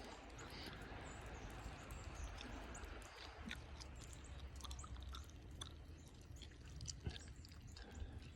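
Gum chewing close to a phone's microphone: small irregular clicks and smacks over a steady low rumble.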